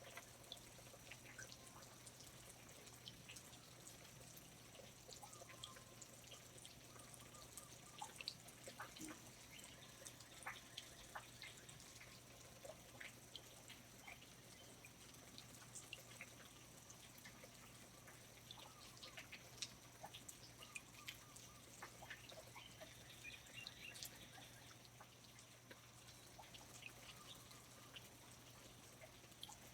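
Faint rainforest ambience: water drops falling irregularly, a few at a time, over a steady low hum.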